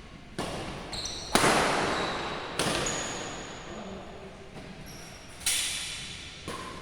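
Badminton rackets striking the shuttlecock in a rally, five sharp irregular hits that echo in a large hall, the second the loudest. Short high squeaks, likely shoes on the court floor, come between the hits.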